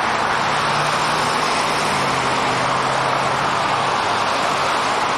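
Steady rushing road noise of a moving car, with a faint low engine hum beneath it.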